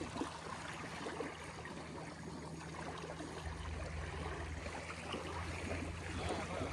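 Water lapping and trickling, with a steady low hum underneath that grows louder about three and a half seconds in.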